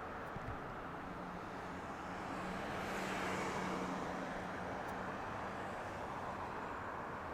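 Steady distant engine rumble, swelling slightly a few seconds in and easing off again, with a faint low hum underneath.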